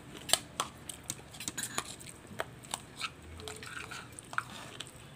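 A person chewing and eating with her fingers: irregular short clicks and smacks of the mouth.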